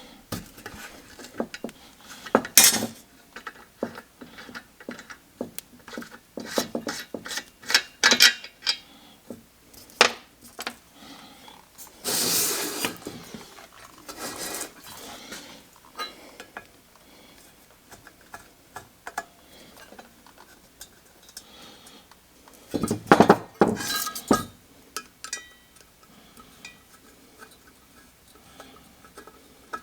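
Metal parts of a 1947 Coleman 500 camp stove clinking and clanking as it is taken apart. Scattered light clicks run throughout, with a second-long rattle about twelve seconds in and a cluster of louder clanks a little past twenty seconds.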